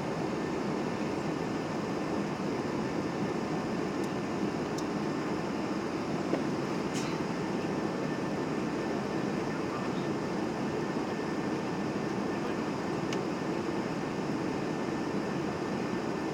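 Steady cabin noise of a Boeing 737-800 in flight, the engines and airflow heard as an even low rush from inside the cabin, with a few faint clicks.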